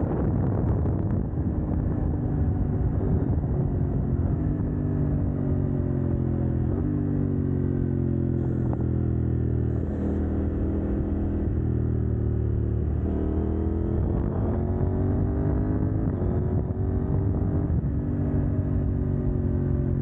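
CF Moto 800NK's parallel-twin engine, with the catalytic converter removed, under way: the engine note rises and steps down at each shift, eases off about ten seconds in, then climbs again.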